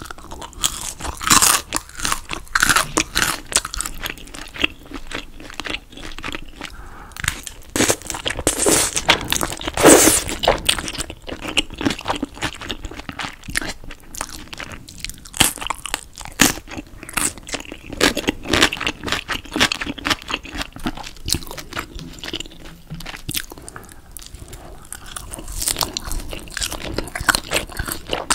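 Close-miked chewing of crispy battered fried pork (tangsuyuk), with crisp, irregular crunches throughout.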